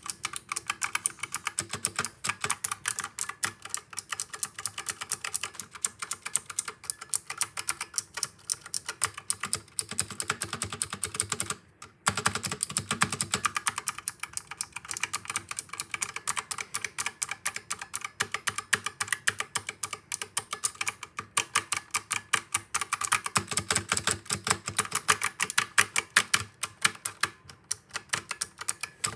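Keys of a Razer Huntsman Mini mechanical keyboard being typed on rapidly and continuously, with one brief pause about twelve seconds in.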